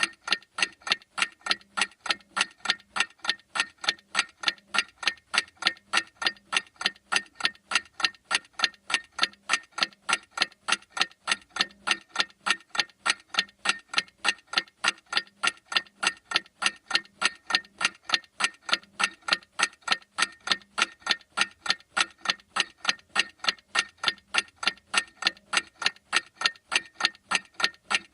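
Clock ticking steadily, with sharp, evenly spaced ticks several times a second.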